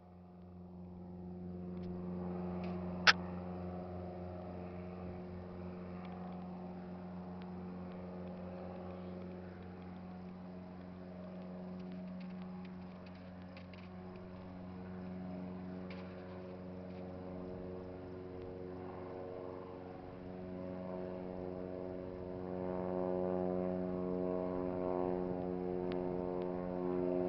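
Cessna 172 floatplane's piston engine and propeller running steadily, building up over the first couple of seconds and growing louder about 21 seconds in. A single sharp click about 3 seconds in.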